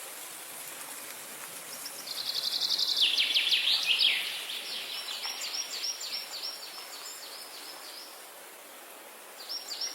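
A songbird singing long rapid trills of repeated high, down-sweeping notes, starting about two seconds in, loudest soon after, and fading out near eight seconds; it starts up again just before the end. A steady background hiss of rushing water runs beneath it.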